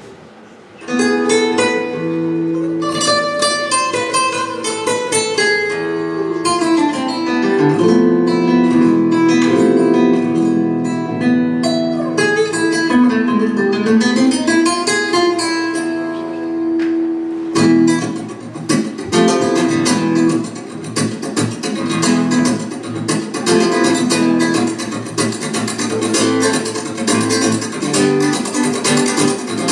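Spanish-style acoustic guitar music starting about a second in. A melodic picked passage gives way about halfway through to fast, rhythmic strumming.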